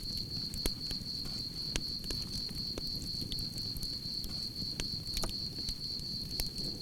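Campfire crackling and popping with scattered sharp snaps over a low rumble of burning wood, while crickets chirp steadily in a continuous high-pitched trill.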